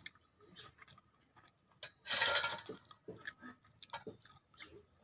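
Close-up eating sounds: scattered small wet mouth clicks of chewing, with one loud half-second rush of noise about two seconds in.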